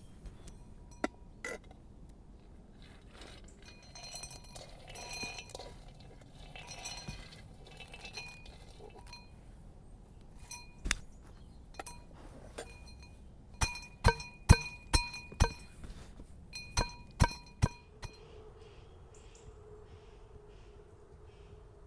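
Hard kitchenware clinking: a few scattered clinks, then a quick run of about ten sharp clinks in the second half, each with a brief ring at the same pitches.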